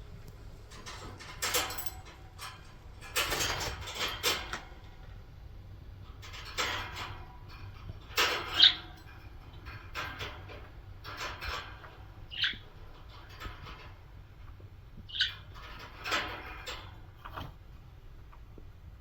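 Pet budgies giving a few short, high chirps, among scattered light clicks and rustling.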